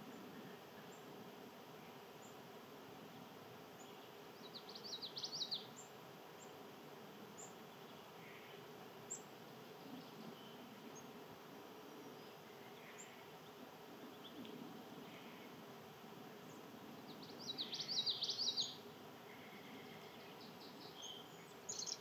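A small songbird gives two short bursts of rapid high notes, about five seconds in and again at about eighteen seconds, with a brief high note at the very end. Faint scattered chirps and a steady low background hum run beneath.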